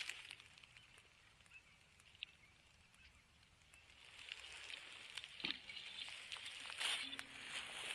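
Faint rustling and crackling with a few light clicks. It dies down almost to silence for a few seconds, then picks up again about halfway through, and a low steady hum comes in near the end.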